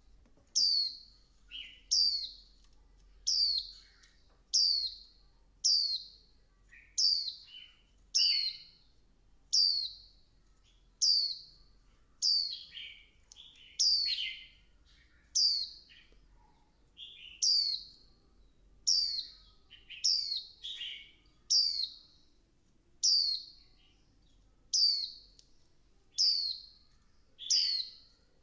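Female white-eye (vành khuyên) giving short, sharp, downward-sliding call notes, about one every second and a quarter, some with a quick lower second note. Bird keepers use this call to stir male white-eyes into song.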